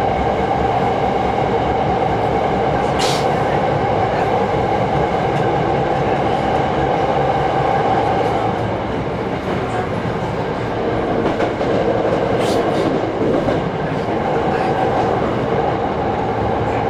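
Hankyu 6300 series electric train running along the line, heard from on board: steady running noise with a hum that fades about halfway through and comes back near the end, and two sharp clicks.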